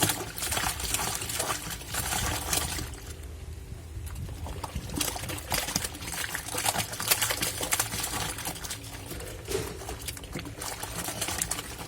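Water sloshing and splashing in the tub of a Black&Decker washing machine as a load of clothes is churned round in it, in irregular surges, with a steady low hum underneath.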